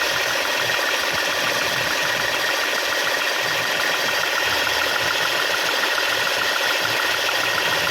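Volkswagen Polo engine idling steadily, with a fast, even ticking over its running noise.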